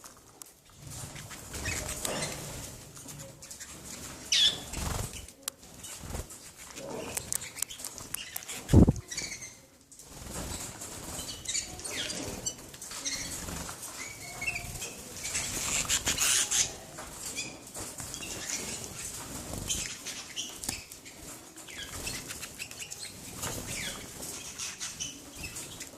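Canaries fluttering, with irregular wing flaps and rustling and a few short chirps. A single loud thump comes about nine seconds in.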